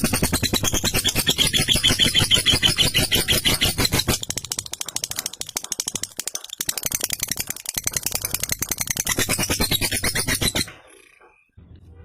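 Lovebird's long 'ngekek' song: a rapid, fast-pulsing chatter that runs on without pause, eases somewhat about a third of the way in and breaks off about eleven seconds in.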